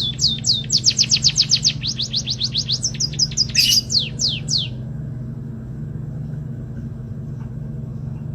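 White-headed munia (emprit haji) singing a fast run of sharply down-slurred whistled notes, about six a second, with a brief harsh burst about three and a half seconds in. The song stops about halfway through, leaving a steady low hum that also runs beneath it.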